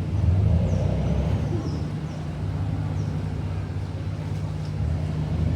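Passenger ferry's engine running steadily, a constant low drone heard from on board.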